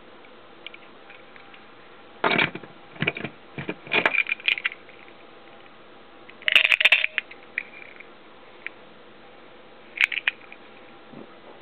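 Metallic clinks and rattles in several short bursts, the loudest a little past six seconds in: an old push-type motorcycle horn and its mounting bracket being handled.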